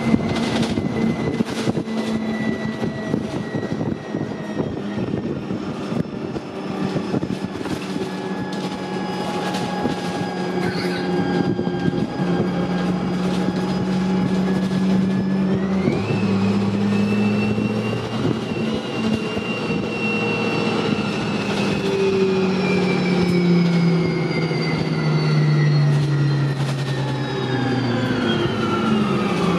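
Dennis Dart bus running on the move: a steady engine note with a high whine over it. About sixteen seconds in, the engine and the whine jump up in pitch, then slowly fall away.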